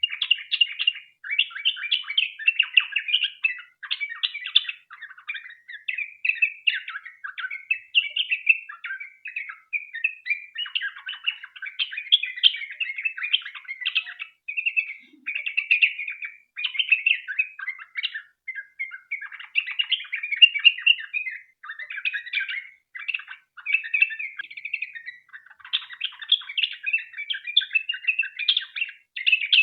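Yellow-vented bulbul (trucukan) singing a long, rapid chattering song, phrase after phrase with hardly a pause.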